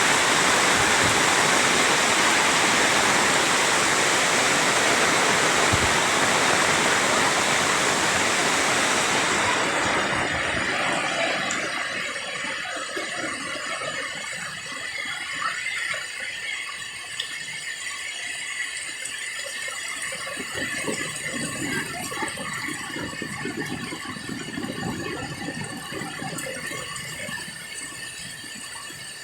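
Heavy rain pouring, a loud even rush of noise; about ten seconds in it falls away to quieter, irregular rattling and patter.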